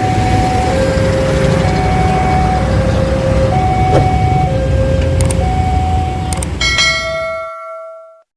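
A two-tone warning alarm alternating between a high and a low note about once a second, typical of a railway level crossing alarm, over the low rumble of a passing train. Near the end the rumble cuts out and a bright ringing chime sounds and fades away.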